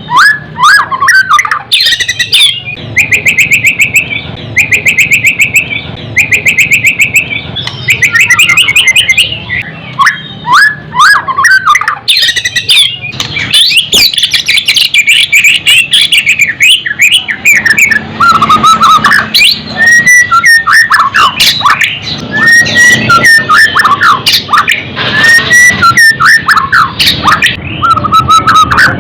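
White-rumped shama (murai batu) singing loudly and without pause: fast rattling trills and chattering notes, then from about the middle on repeated whistled phrases.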